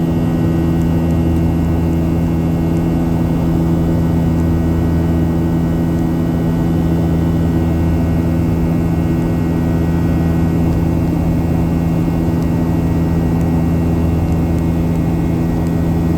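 Boeing 737-800's twin CFM56-7 turbofan engines running, heard from inside the passenger cabin: a steady, loud drone with a constant low hum.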